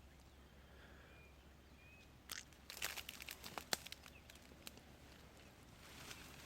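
Faint crunching and crackling of dry weeds and brush being pushed through, with a cluster of sharp crackles in the middle. Two faint short high chirps come about a second in.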